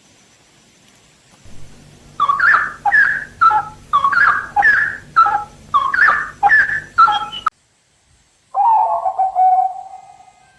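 A bird calling a quick series of repeated sweeping notes, about two a second, which stops abruptly, followed after a second of silence by a lower, drawn-out hooting note that fades away.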